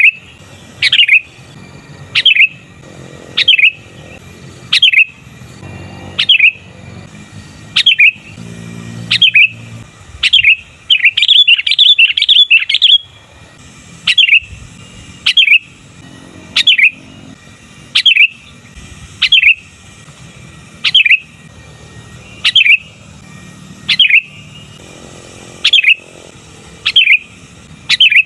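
Sooty-headed bulbul giving a short, sharp call over and over, about once every second and a bit, with a quick run of several notes about eleven seconds in.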